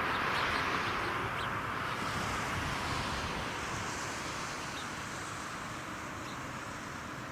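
Jet airliner engine noise: a steady rushing that is loudest at first and slowly fades.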